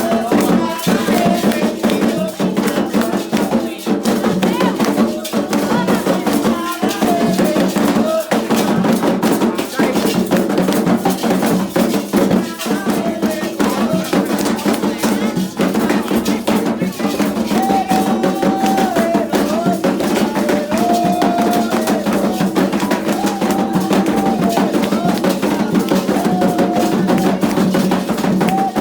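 Religious ceremonial music for the orixá Xangô: drums and rattles keep a steady, fast rhythm under group chanting, with voices holding long sung notes through the second half.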